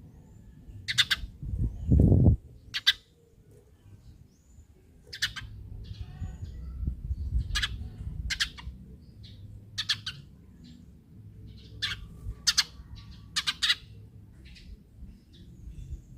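Eurasian tree sparrow giving short, sharp single chirps at irregular intervals. A loud low thump comes about two seconds in.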